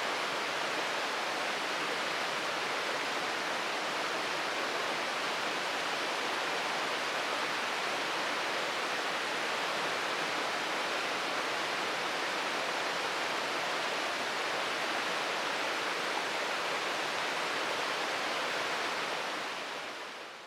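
Steady rushing of a waterfall, Shirogane Falls, fading out near the end.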